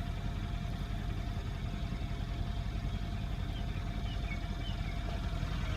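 A car engine idling steadily: a low, even rumble with a faint steady hum above it.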